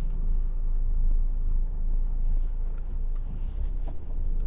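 Truck's diesel engine running steadily while driving, a low rumble heard from inside the cab.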